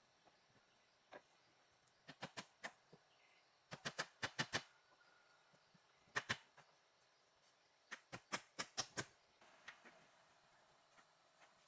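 Sharp knocks or taps in quick runs of two to seven strokes, with short quiet pauses between the runs.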